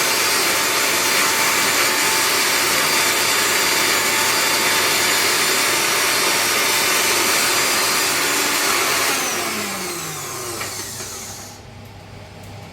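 Electric mixer-grinder (mixie) running at full speed grinding a wet masala paste, then switched off about nine seconds in, its motor whine falling in pitch as it winds down to a stop.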